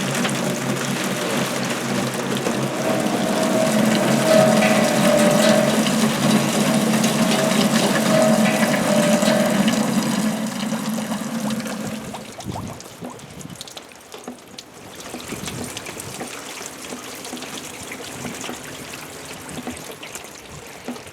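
Water pouring and splashing over hung found objects (plastic containers, license plates, pieces of wood) in a water-music installation, with steady pitched tones over a dense wash of water. About twelve seconds in it drops to a quieter patter of scattered drips and taps.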